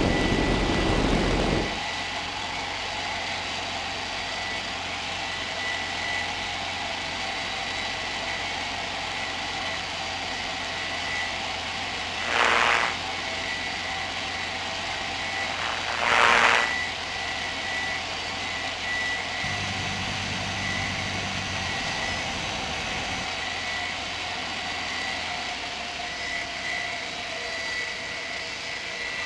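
Cessna 150's four-cylinder piston engine and propeller running, loud for the first couple of seconds and then dropping abruptly to a lower, steady drone. Two brief hissing bursts come near the middle.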